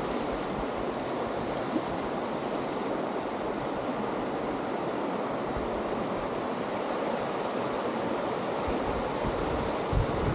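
Steady rushing of river rapids, with low wind buffeting on the microphone near the end.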